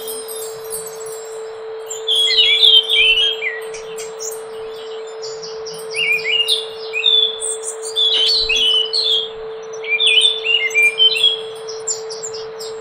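Scaly thrush (anis macan) singing: short phrases of quick, high, slurred notes, repeated every couple of seconds. A steady low hum runs underneath.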